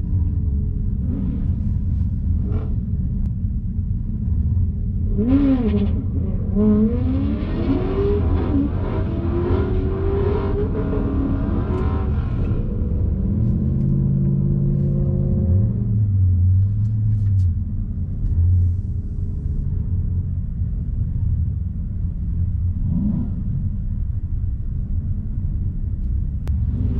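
Vehicle engines running in a steady low rumble, with an engine revving up and down from about five to twelve seconds in.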